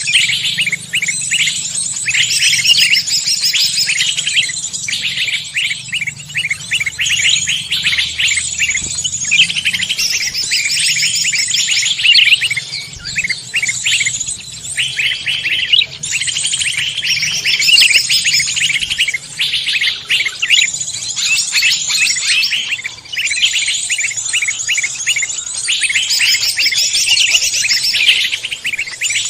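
Songbirds chirping and trilling fast and densely, one phrase after another with short breaks.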